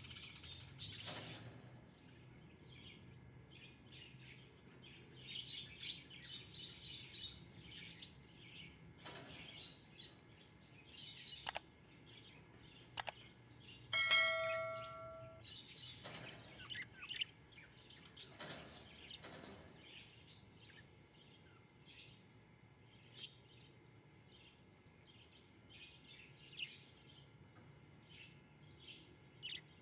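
Budgerigars chirping faintly and intermittently, short high peeps scattered throughout. About halfway through, a brief ringing tone lasts a second or so, just after a couple of sharp clicks.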